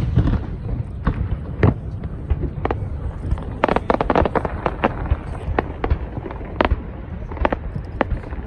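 Aerial fireworks bursting in an irregular string of sharp bangs, thickest in a quick crackling cluster around the middle.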